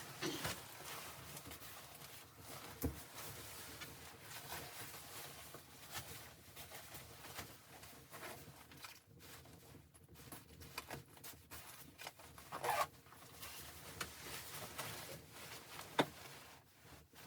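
Continuous rustling and handling noise, as of gear or clothing being moved, with scattered small clicks and three louder knocks, the sharpest near the end.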